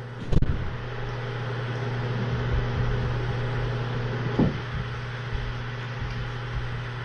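A steady low mechanical hum throughout, with a sharp knock about a third of a second in and a softer thump about four seconds in.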